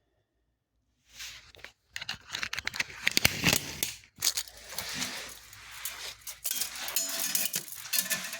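Metal tape measure being pulled out and worked inside a small cast-iron stove firebox: a dense run of clicks, scrapes and rattles that starts about a second in.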